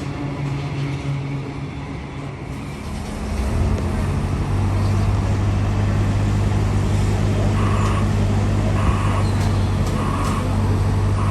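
Suburban electric train at a station platform: a steady low hum swells a few seconds in and holds. Past halfway a short beep starts repeating about once a second.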